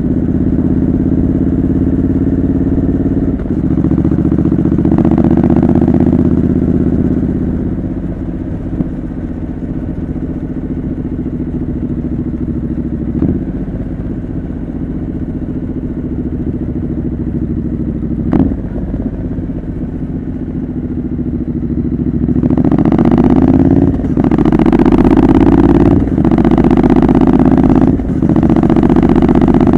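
Triumph Scrambler 900 parallel-twin running through a homemade exhaust while being ridden. It holds a steady lighter-throttle cruise, then opens up a little over twenty seconds in and pulls harder, with short breaks in the note for gear changes.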